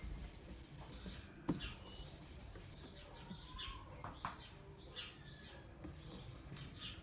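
Faint, scattered short chirps of small birds, a few calls every second or so.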